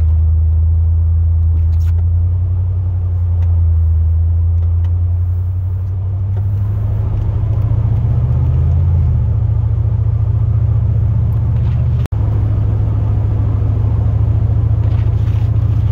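Pickup truck's engine and drivetrain drone heard from inside the cab while driving: a steady low hum that rises in pitch about eight or nine seconds in and then holds.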